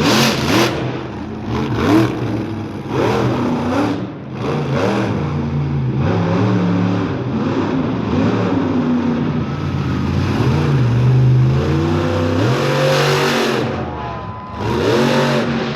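Monster truck engine revving hard over and over, its pitch climbing and dropping as the throttle is blipped and held, with a few sharp cracks along the way.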